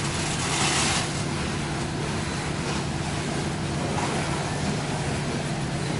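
Diesel-electric freight locomotives running under load: a steady low engine drone, with a brief louder rush of noise about half a second in.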